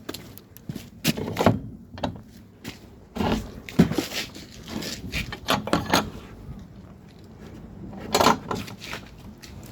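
Irregular clinks, knocks and scrapes of tools and small metal objects being handled, in scattered bunches with a louder clatter about eight seconds in.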